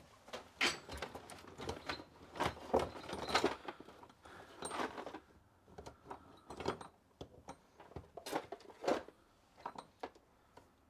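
Metal tools and small engine parts being handled on a workbench: a scattered series of clicks, clanks and light jangles, some with a short metallic ring.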